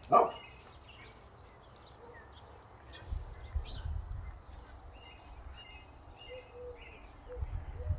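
Backyard songbirds chirping faintly in short repeated notes, with one loud dog bark right at the start. A low rumble of passing traffic swells twice.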